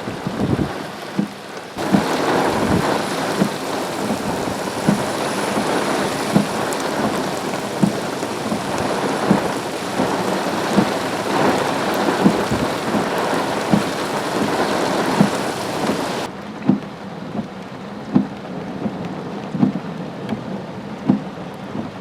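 Heavy thunderstorm rain with many sharp drops knocking on a hard surface. A louder, fuller stretch of rain and wind hiss cuts in abruptly about two seconds in and cuts out just as abruptly about sixteen seconds in.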